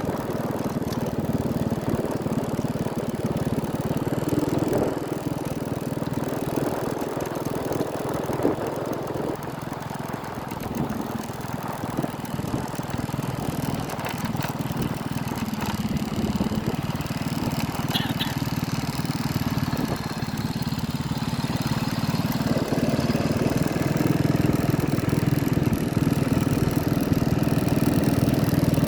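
An engine running steadily throughout, getting louder over the last several seconds.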